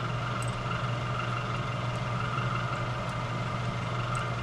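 Steady hum of a machine running in the shop, with a few faint small clicks.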